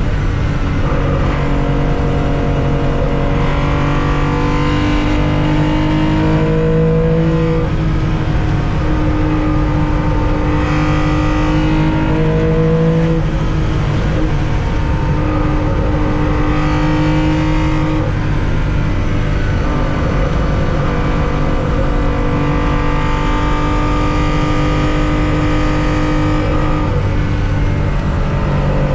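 1965 Porsche 911's air-cooled 2.0-litre flat-six running at full throttle under racing load, its pitch climbing and then stepping down at gear changes several times.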